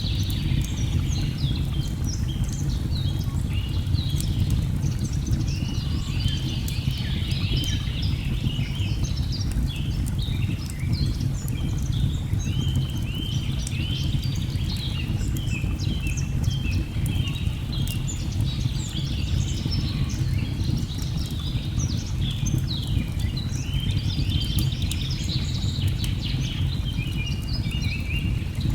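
Many birds chirping and trilling without pause over a steady low rush of falling water, with scattered light crackles of a wood fire.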